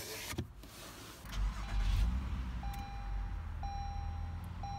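A 2017 Acura RDX's V6 engine starts about a second in and settles into a steady low idle. An electronic chime tone repeats about once a second over it.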